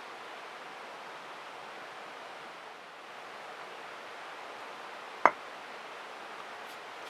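A steady, even rushing noise, with a single sharp click or knock a little over five seconds in.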